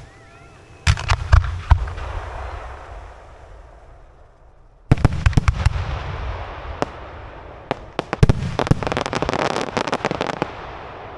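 Fireworks display: shells bursting with sharp bangs in volleys, about a second in, again in a cluster from about five seconds, and in a dense run with crackle from about eight seconds, each volley fading away afterwards.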